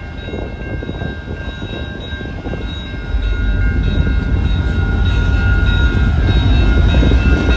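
Freight train led by two Illinois Central EMD SD70 diesel locomotives approaching. Their engines make a low rumble that jumps in level about three seconds in and keeps building, and steady high chime tones from the locomotive horn sound over it.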